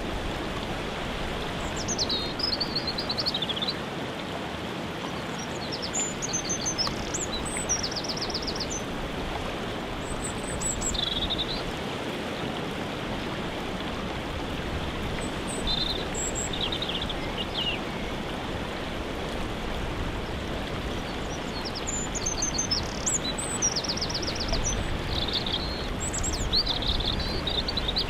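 Waterfall rushing steadily, with songbirds singing short, high phrases over it every few seconds, some of them rapid trills.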